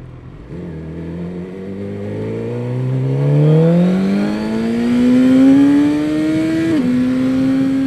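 Suzuki GSX-R sportbike with an Akrapovic full exhaust accelerating hard, its engine note climbing steadily for about six seconds, then dropping sharply as it shifts up a gear and running on at a steady pitch.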